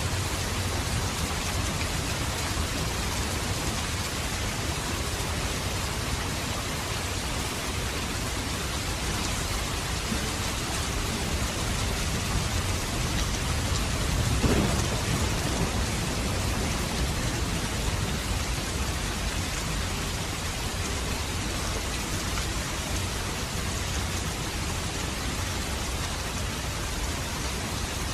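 Steady heavy rain falling, an even hiss throughout, with a brief low rumble about halfway through.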